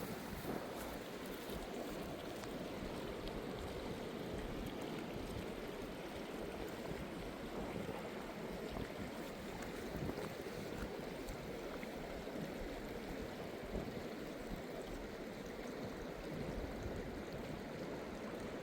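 Steady rushing of flowing river water, with an irregular low rumble underneath.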